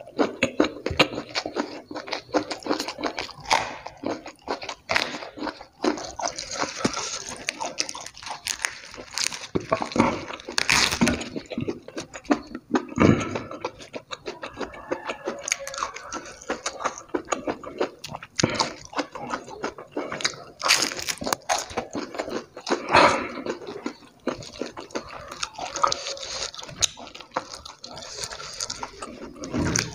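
Close-miked chewing and crunching as a man eats crispy fried egg in chilli sambal and raw lettuce and vegetables with his hands, with many irregular crunches and mouth sounds.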